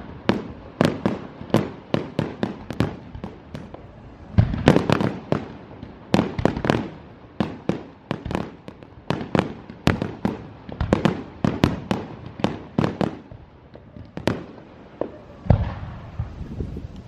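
Aerial fireworks shells bursting in quick succession: sharp bangs, often several a second, many with a low rolling rumble after them.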